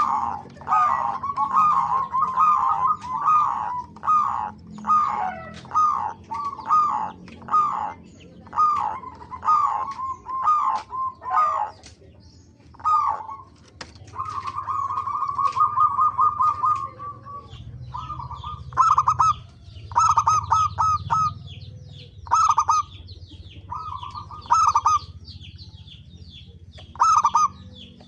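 Zebra doves (perkutut) cooing: a run of short rolling coos in quick succession, then a longer trilled coo about halfway through, then separate phrases a second or two apart.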